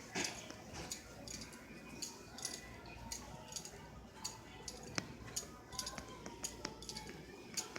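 Irregular light clinks and clatter of dishes and cutlery, a sharp tick every fraction of a second, over a low steady hum and faint background voices.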